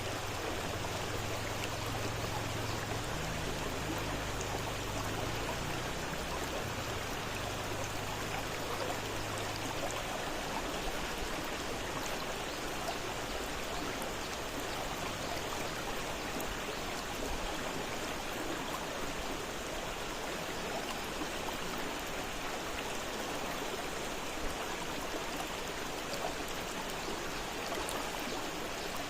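River water flowing fast, a steady rushing and splashing.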